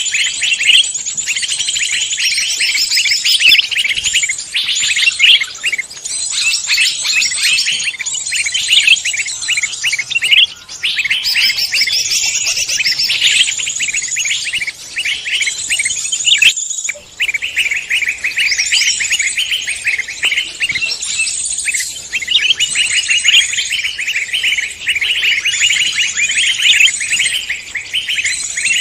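Songbirds chirping and twittering, a dense and rapid run of high, fast notes with one short break about 17 s in.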